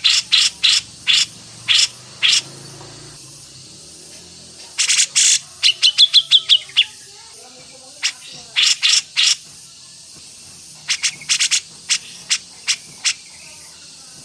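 Songbird singing in bursts of short, sharp, harsh notes with quiet gaps between them, including a quick run of about eight rapid ticking notes around six seconds in.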